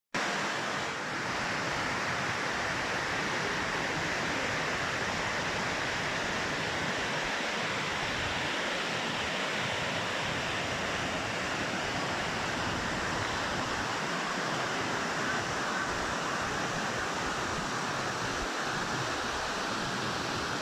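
Steady rushing water, an even noise that holds without pauses or changes.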